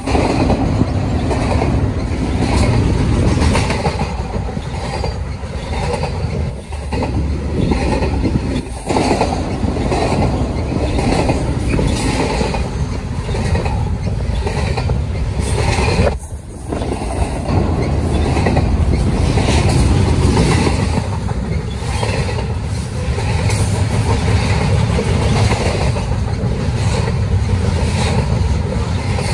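Double-stack intermodal freight train rolling past at close range: a steady heavy rumble with a regular clickety-clack of wheels and a faint steady whine. The sound dips briefly about halfway through, then carries on.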